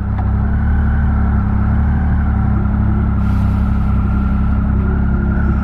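Steady vehicle engine drone with road noise, heard from inside a car.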